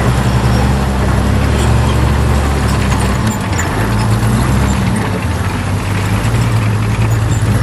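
Heavy diesel engine of earthmoving equipment running steadily at a low pitch, its note shifting a little partway through, with faint scattered clatter over it.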